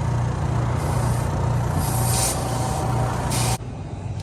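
Pit bike engine running, with bursts of hissing noise over it. It cuts off abruptly about three and a half seconds in.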